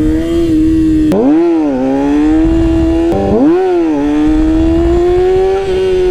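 Yamaha R6 sport bike's inline-four engine running in first gear at steady high revs, blipped twice, about a second in and again about three seconds in, each time rising sharply and dropping back. A low wind rumble runs underneath.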